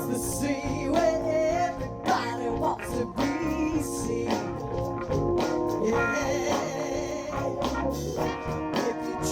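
A ten-piece soul band playing live: an instrumental passage with a steady beat before the vocals of the song come in.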